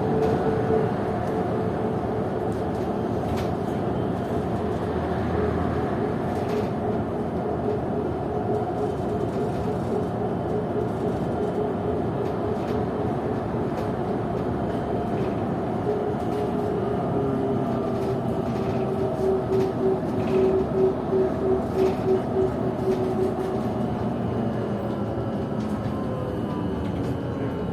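Ride inside a PKTS-6281.01 "Admiral" trolleybus: the whine of its DTA-3U1 AC traction motor and IGBT inverter, over a steady road and body rumble. Its tones shift as the speed changes, and one tone pulses for a few seconds about two-thirds of the way through.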